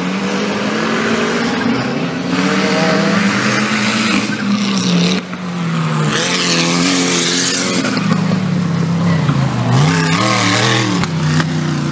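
4WD off-road race car engine revving, its pitch rising and falling repeatedly as the throttle is worked, with several bursts of rushing noise over it.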